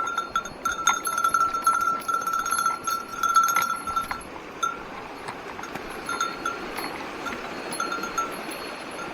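A small metal bell jingling as it is carried, ringing continuously for about four seconds and then in short, separate rings, over the steady rush of stream water.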